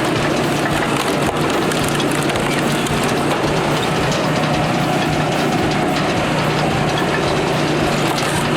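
Wood-processing machine running: a steady engine hum under a continuous dense crackle of wood being worked.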